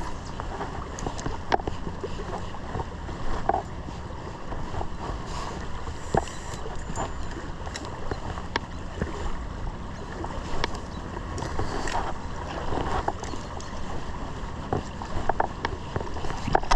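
Stream water running steadily, with scattered small splashes and knocks throughout.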